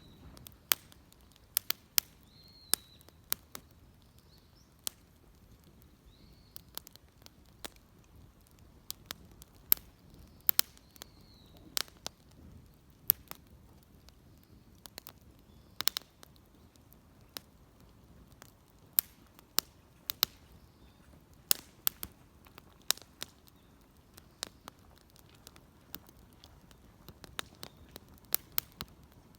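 Wood fire crackling, with sharp irregular pops and snaps about one or two a second.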